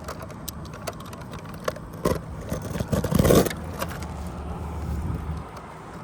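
Roofing material for a temporary covering being handled and cut with a utility knife: scattered clicks and scrapes, with a loud rustle about three seconds in, over a low steady rumble.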